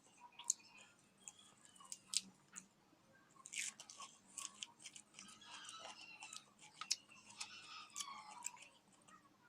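Someone eating: faint chewing and crunching with scattered sharp clicks and taps, about a dozen in all, the loudest burst near the middle.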